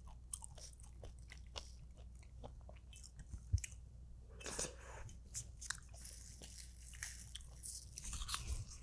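Close-miked chewing of food, with many small wet mouth clicks and crunches. There is a single low thump about three and a half seconds in.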